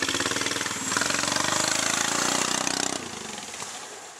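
Lawn tractor engine running hard under load in mud, with a rapid pulsing beat and a shifting pitch. It drops off sharply about three seconds in and then fades.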